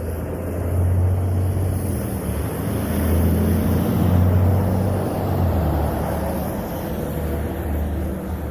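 A motor vehicle's engine running close by, a low rumble that builds over the first few seconds and fades toward the end as it goes past.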